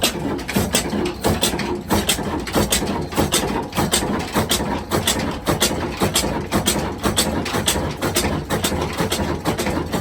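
Diesel engine running with an even, sharp knocking beat, a few beats a second.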